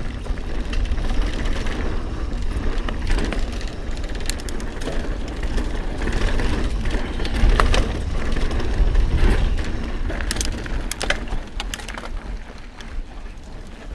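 Mountain bike riding over a rough dirt trail: tyres crunching over dirt and stones, with scattered sharp clicks and rattles from rocks and the bike. A deep rumble of wind on the microphone runs under it.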